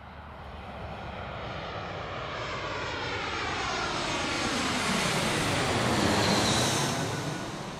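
Airplane passing overhead: a rushing engine noise that swells to its loudest about six seconds in and begins to fade near the end, with a sweeping, phasing whoosh as it goes by.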